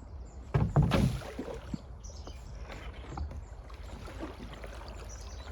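Kayak being handled on the water: a loud knock with a splash about a second in, then quieter water and handling noises over a low steady rumble of current or wind.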